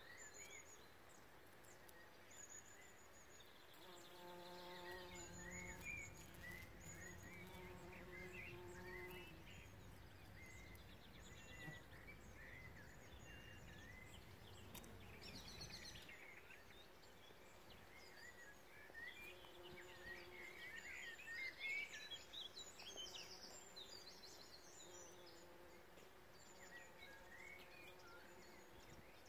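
Faint birdsong, many small birds chirping and trilling together, with bees buzzing around flowering field beans; one bee buzzes close from about four to nine seconds in, and again more briefly later on.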